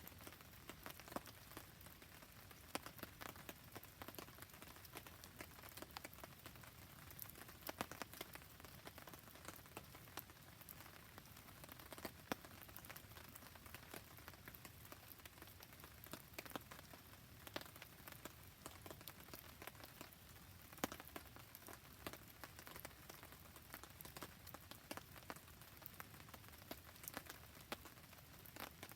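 Faint, steady rain falling, with a constant hiss dotted by many scattered sharp ticks of drops striking a surface.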